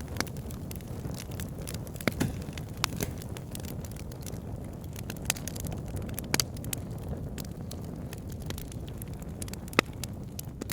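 Fire in a fireplace crackling and popping over a steady low rumble of flame, with sharp pops at irregular intervals, the loudest single pop near the end.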